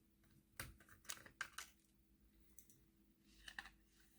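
Faint, scattered clicks and taps of small plastic parts as a model locomotive's tender is handled and opened up.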